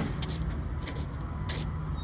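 Low, steady rumble of a large jet aircraft's engines, with a faint steady whine over it and a few light clicks.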